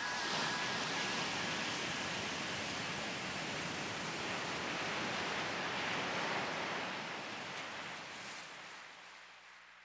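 Sea surf: a steady wash of waves, fading out over the last few seconds.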